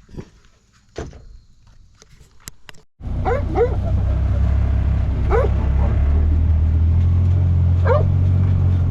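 A dog barks a few times over quiet surroundings. About three seconds in, the sound cuts abruptly to a side-by-side UTV's engine running steadily, a loud low hum, with a few short calls over it.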